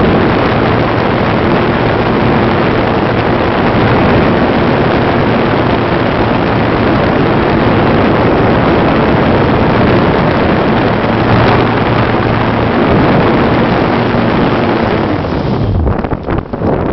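Electric motor and propeller of a GWS Slowstick RC plane, heard from a camera mounted on the plane, under loud wind rush across the microphone, with a faint steady motor hum. About a second before the end the hum falls away as the motor winds down, leaving choppy, gusty wind noise.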